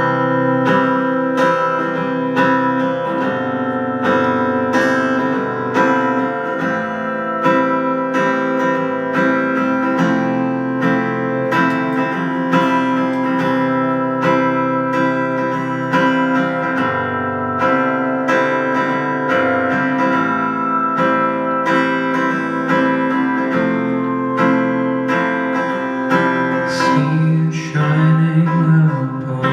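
Acoustic guitar playing the instrumental intro of a song, a steady run of picked and strummed chords.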